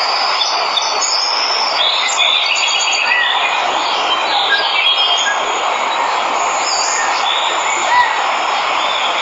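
Steady rush of a waterfall with many jungle birds chirping and whistling over it.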